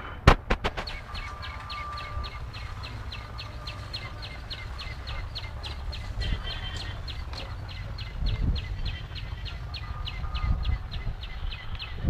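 A small bird chirping rapidly and evenly, about four short chirps a second, over a low steady rumble. There is a sharp click near the start.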